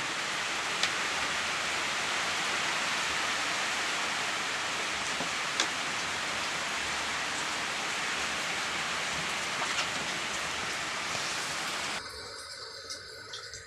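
Steady rushing noise with a few faint clicks, cutting off abruptly near the end.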